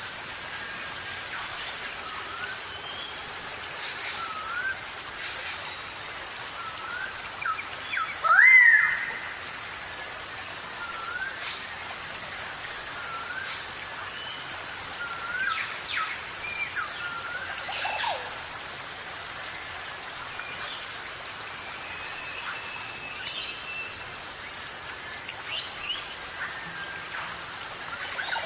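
Parrots chirping and whistling in short calls over a steady background hiss. The loudest is one rising squawk about eight seconds in.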